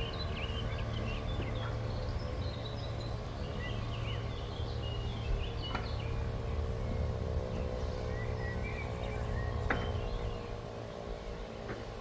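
Birds chirping and calling over a steady low hum and rumble, with two sharp clicks, about halfway through and near the end.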